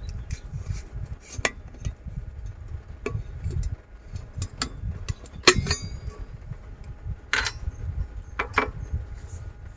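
Scattered clicks and clatters of small hard objects being handled, like utensils or dishes, with the loudest knock about halfway through, over an uneven low rumble.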